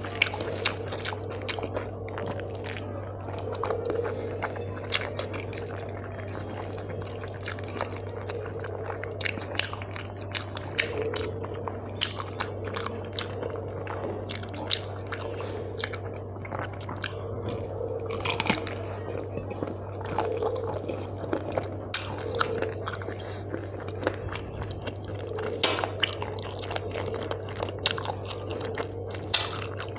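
Close-up eating by hand of rice and fried fish: wet chewing and lip smacks in many short, irregular clicks, over a steady low hum.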